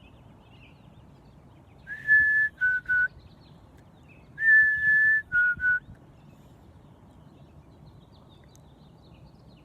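A person whistling an imitation of the chickadee's baseline song, twice: each time a long clear high note followed by two short, slightly lower notes.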